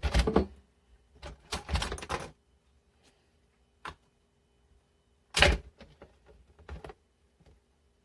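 Irregular knocks and clicks from objects being handled, in short clusters: a loud burst at the start, a rattle about a second and a half in, single knocks near four and seven seconds, and a loud knock about five and a half seconds in.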